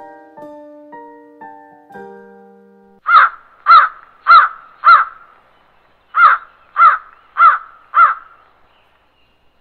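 Soft piano notes for the first three seconds, then a crow cawing: two runs of four harsh caws, about half a second apart, with a short pause between the runs.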